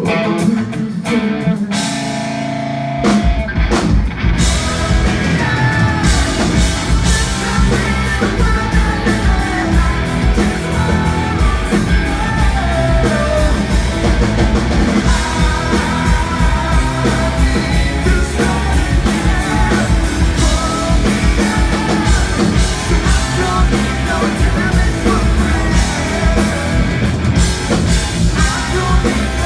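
A live band playing a song with guitar, bass, drum kit and a singer; the drums and bass come in fully about three seconds in, after a sparser opening.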